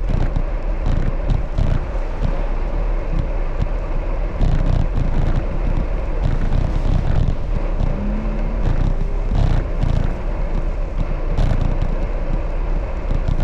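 Wind buffeting the microphone of a moving bicycle, a loud, gusty low rumble with scattered light clicks and rattles.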